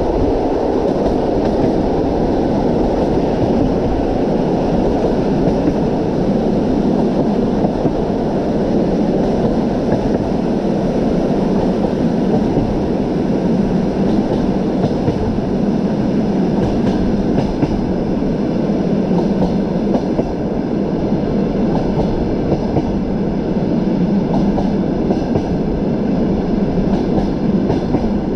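Train running on the rails: a steady rumble with the knock of the wheels over the rails.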